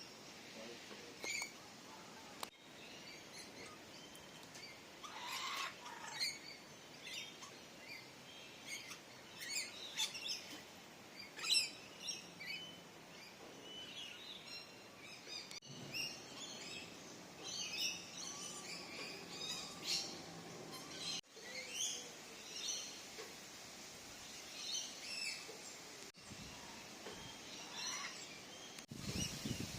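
Several birds chirping and calling, with many short high calls overlapping one another throughout.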